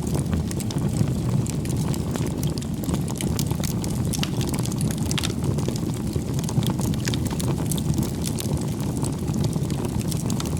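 Bonfire of burning firewood: a steady low rumble of flames with frequent small crackles and pops.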